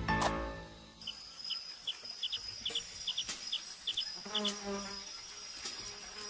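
Rainforest insects chirping: a steady high buzz with short paired chirps repeating two to three times a second, and a brief lower call about four and a half seconds in. Documentary music fades out in the first second.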